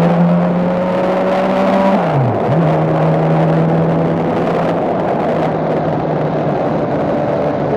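Motorcycle engine running under way with wind noise. Its note rises slightly, dips sharply about two seconds in, then comes back and holds steady.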